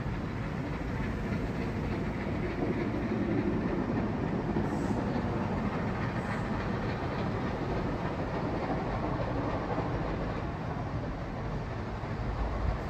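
A train running along the track: a steady noise of wheels on rail that swells a little a few seconds in.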